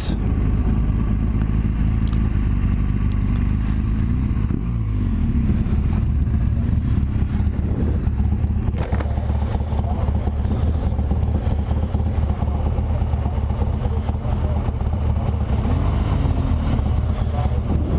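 BMW R1200GS Adventure's boxer-twin engine running while riding, with wind and road noise. The engine note drops around four to five seconds in and briefly rises and falls again near the end.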